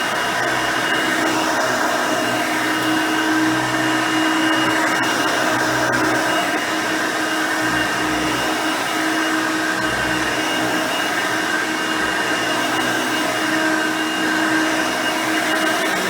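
Hoover Elite High Performance upright vacuum cleaner, with its 5-amp motor and nine-blade fan, running while vacuuming: a steady motor whine whose level rises and falls slightly.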